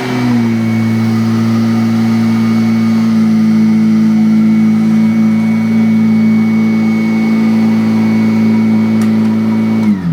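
Kirby Avalir 2 upright vacuum cleaner running steadily at full speed, a loud motor hum with a high whine above it. Near the end it is switched off and the motor winds down, falling in pitch.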